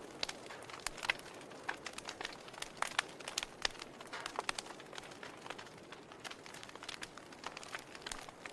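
Wood fire burning in a fireplace, the firewood crackling with irregular sharp pops and snaps, several a second, over a soft steady hiss.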